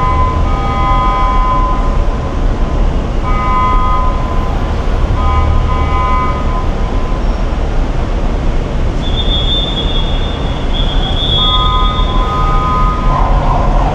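Steady low road and engine rumble heard from inside a car stuck in heavy traffic. Several horn blasts of a few seconds each rise over it, and a high steady whistle-like tone sounds for a couple of seconds in between.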